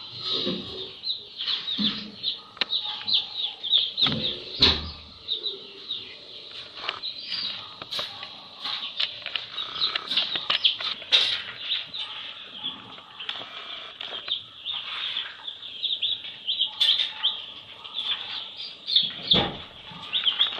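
A group of baby chicks peeping continuously, many short high peeps overlapping, with a few dull thumps, one about four seconds in and another near the end.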